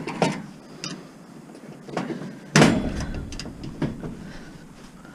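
Scattered metal knocks and clanks from a scrap appliance being taken apart by hand, with the loudest knock about two and a half seconds in.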